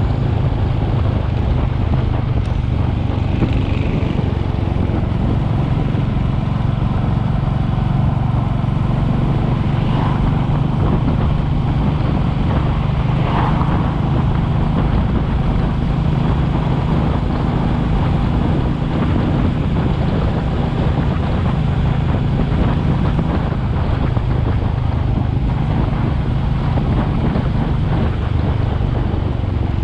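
Royal Enfield Classic 350's single-cylinder engine running steadily while the motorcycle is ridden at a constant cruising pace.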